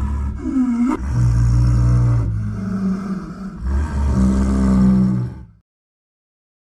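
Leopard growling: a series of long, low growls that cut off about five and a half seconds in.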